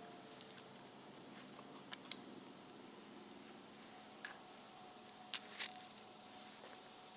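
A spoon clinking and scraping in a metal camp cook pot as a child eats oatmeal: a few light clicks, the loudest two a little past the middle.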